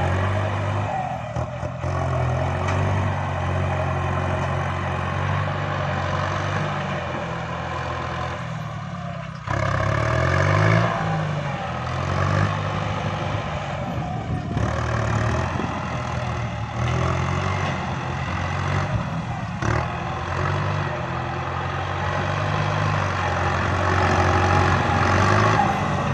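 Kubota MU5702 tractor's diesel engine running steadily under working load, its speed stepping up and down. About a third of the way in, the sound suddenly gets louder and the engine note briefly rises.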